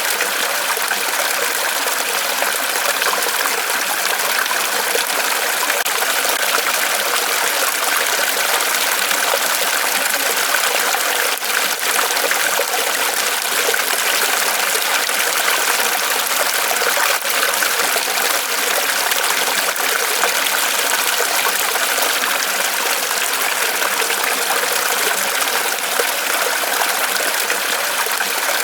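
Water falling and trickling off a tree trunk in a small waterfall: a steady, even splashing rush.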